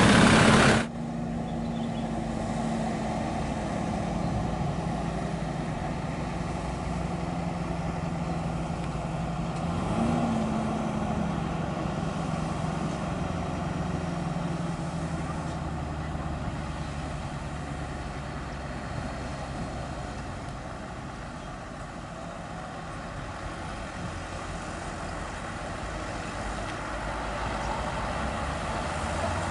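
Scania R580's V8 diesel engine running steadily under way, its low hum rising briefly in pitch about ten seconds in. A loud rushing noise cuts off abruptly about a second in.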